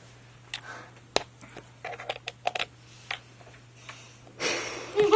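Scattered small clicks and ticks from someone eating and handling food, over a low steady hum, with a short noisy rush near the end.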